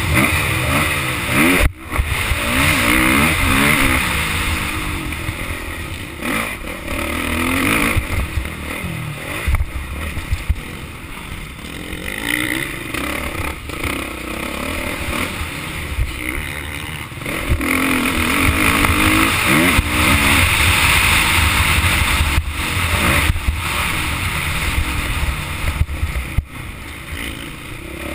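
Motocross bike engine revving up and dropping back over and over as the bike accelerates and shuts off around the track, with a few sharp knocks.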